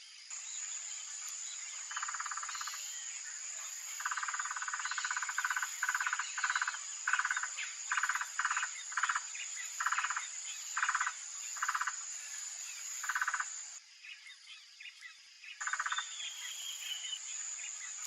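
Steady high-pitched insect drone that breaks off for about two seconds near the end. Over it, repeated short bursts of rapid pulsed calls come roughly once or twice a second, with one longer run about four seconds in.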